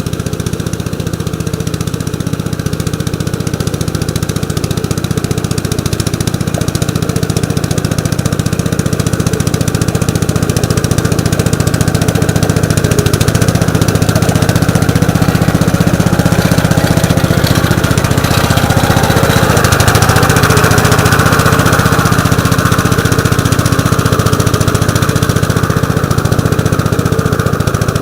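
1948 Gravely Model L walk-behind tractor's single-cylinder engine running steadily, growing louder over the first dozen seconds and then holding.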